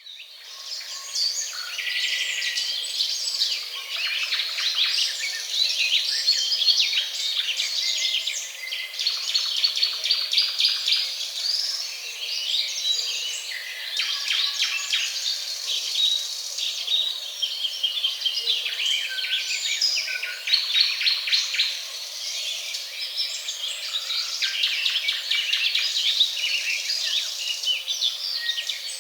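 Many small birds chirping and singing at once, a dense, unbroken chorus of short overlapping calls.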